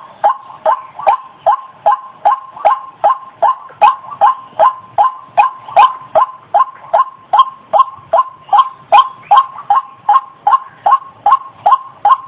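White-breasted waterhen calling a long, unbroken series of short notes, about three a second, each note dropping slightly in pitch.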